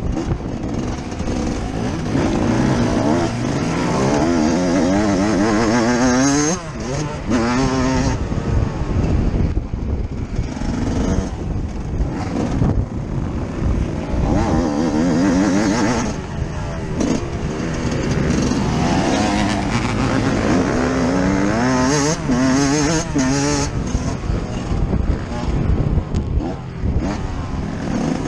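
Yamaha YZ 125 two-stroke motocross engine ridden hard, revving up through the gears and dropping back off the throttle again and again.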